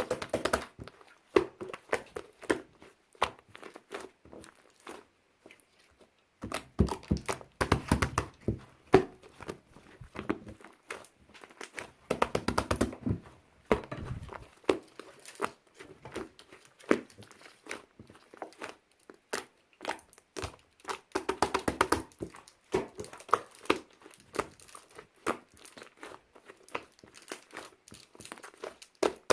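Close-up crinkling and tearing of a wrapper, the crackle coming in dense bursts of handling with sparser clicks and rustles between them.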